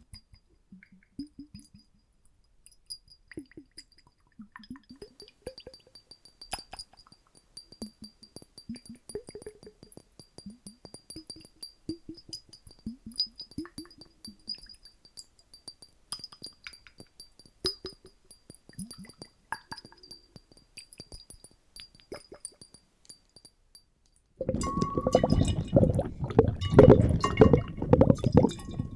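Sparse small water plinks, clicks and short rising bubble-like blips over a faint steady high tone. About 24 seconds in, loud dense sloshing and bubbling water begins, recorded with water sloshed in bottles and a microphone dunked in a bucket.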